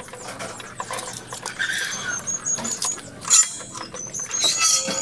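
Small birds chirping in series of short, high notes, over scattered clicks and a louder knock about three and a half seconds in.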